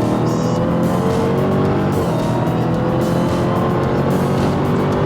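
Supercharged 6.2-litre V8 of a 2017 Dodge Challenger Hellcat under hard acceleration. Its pitch climbs steadily, drops briefly about two seconds in at a gear change, then climbs again.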